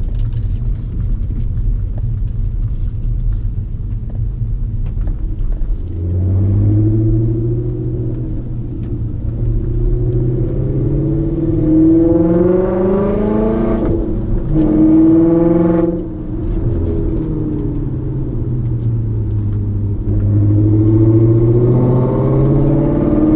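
Volkswagen Passat W8's 4.0-litre W8 engine through a custom valved exhaust with the valve open: a low rumble at first, then, about six seconds in, the note rises under hard acceleration, breaks twice at gear changes, eases off and pulls up in pitch again near the end.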